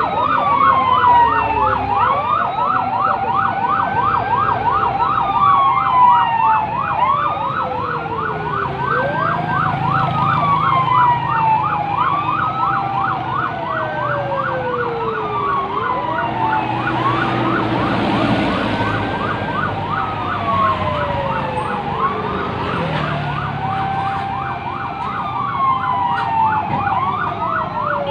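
Several emergency-vehicle sirens sounding together: one on a fast yelp, the others on slow wails that rise and fall every few seconds and overlap each other, over a low vehicle rumble.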